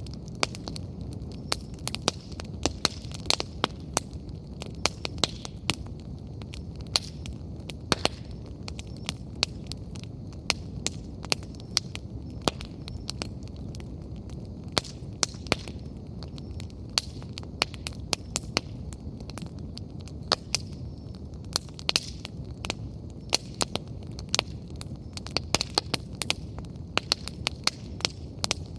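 Wood fire burning: a steady low rumble of flames with frequent irregular crackles and sharp pops from the burning firewood.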